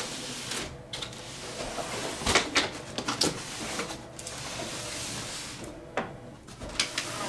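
A large cardboard shipping box with foam packing being handled and turned: steady rustling and scraping with several sharp knocks, a cluster about two to three seconds in and more near the end.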